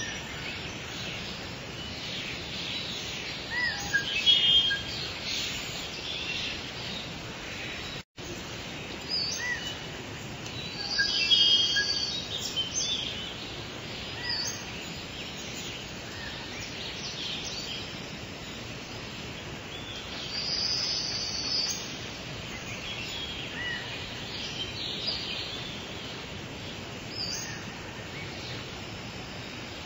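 Wild songbirds calling and chirping in short scattered bursts over a steady outdoor background hiss, with the loudest calls a few seconds in, around twelve seconds and around twenty-one seconds. The sound cuts out for an instant about eight seconds in.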